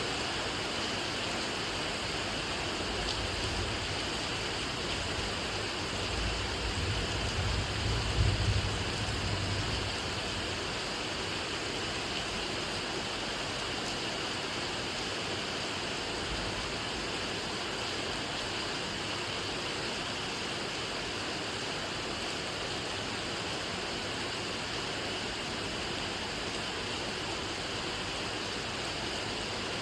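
Steady rain. A low rumble swells between about 3 and 10 seconds in, loudest around 8 seconds.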